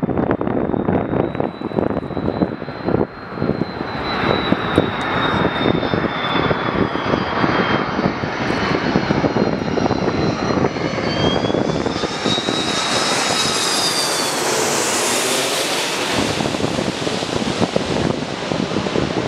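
Jet airliner passing on the runway: the engines run with a high whine that sinks and then rises again over a broad rush, which is loudest and brightest about fifteen seconds in. Wind buffets the microphone in the first few seconds.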